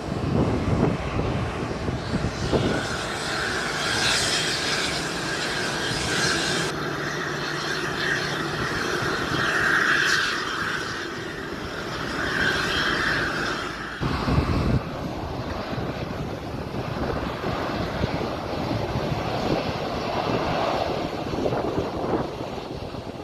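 An airliner's engines running, with a steady high whine over a broad rushing noise. The sound changes abruptly about fourteen seconds in, leaving the rushing without the whine.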